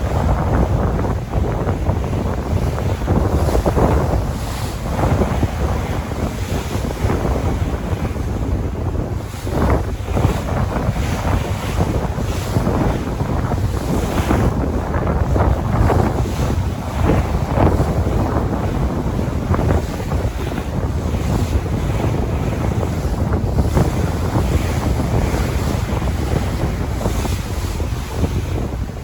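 Sea waves washing in continuously, with wind buffeting the microphone and adding a heavy, gusty rumble.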